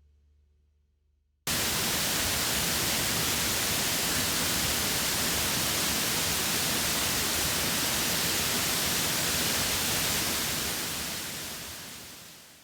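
A waterfall's steady rush of falling water, cutting in abruptly about a second and a half in and fading out near the end.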